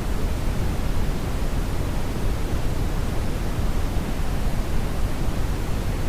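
Brownian (brown) noise: a steady, deep rushing hiss, heaviest in the bass and dull at the top, with no change or events.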